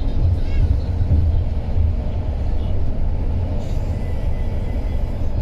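Steady low rumble of a coach bus driving, engine and road noise heard from inside the cabin.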